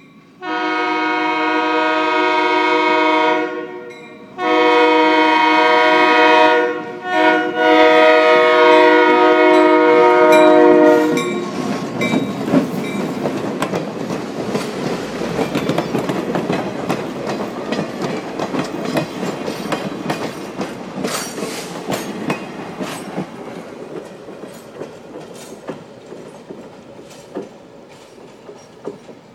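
EMD GP9 diesel locomotive's multi-note air horn sounding the grade-crossing signal: long, long, short, long. Then the locomotive and passenger coaches pass close with rumbling and wheels clicking over the rail joints, fading as the train moves away.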